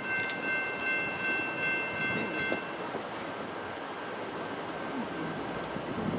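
Steady rushing noise of an approaching freight train led by Union Pacific SD70M locomotives, heard from a distance, with a chord of high steady tones that cuts off about two and a half seconds in.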